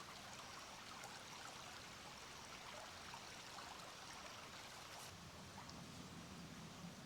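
Faint, steady sound of a small stream flowing.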